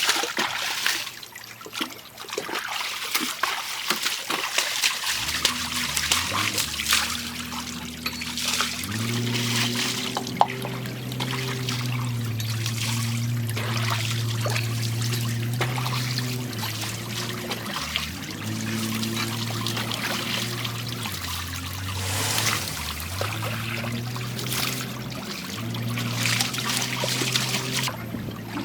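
Water splashing and trickling in a river as a backhoe loader is washed. From about five seconds in, an engine runs steadily underneath, its pitch dipping briefly a few times.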